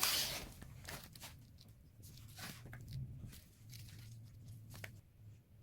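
Plastic rustling and scattered light clicks of LEGO pieces being handled, with a louder burst of rustling at the start.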